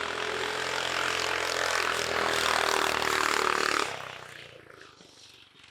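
Go-kart's 420cc Predator single-cylinder engine, governor removed, running at full throttle and getting louder as the kart accelerates down the drag strip. The engine note drops off sharply just before four seconds in and fades away.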